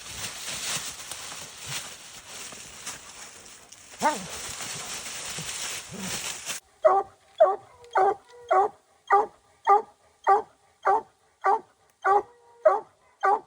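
A steady hiss of outdoor noise with one short rising yelp about four seconds in. Then it cuts abruptly to a hunting hound barking in a steady rhythm, about one bark every 0.6 seconds, a dozen barks in all.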